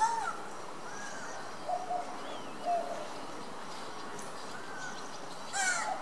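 Scattered short bird calls over a steady background hiss, with a louder pair of harsh calls near the end.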